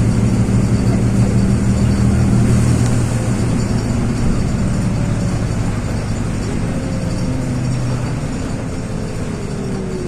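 LiAZ 6213.22-01 articulated city bus under way, heard from inside the cabin: a steady diesel engine and drivetrain hum over road noise that gradually eases off, with a faint falling whine in the second half.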